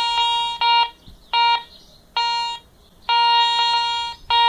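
Garrett Ace 200i metal detector giving its target tone again and again as the coil sweeps over coins among iron screws: a buzzy beep of the same pitch each time, in short bursts with gaps between. In jewellery mode the iron is discriminated out, so only the coins sound.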